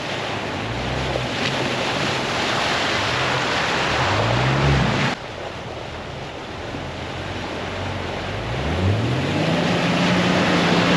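An off-road truck's engine revving on a muddy trail: its pitch rises twice, about four seconds in and again near nine seconds, then holds steady, over a constant rushing noise. The sound changes abruptly about halfway through.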